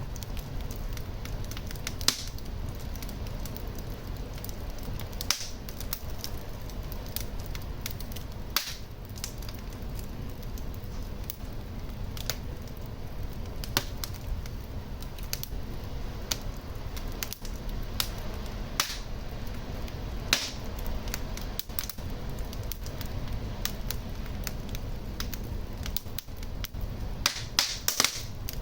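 Wood fire burning in a fireplace: a steady low rumble of flames with frequent small crackles and occasional sharper pops, several in quick succession near the end.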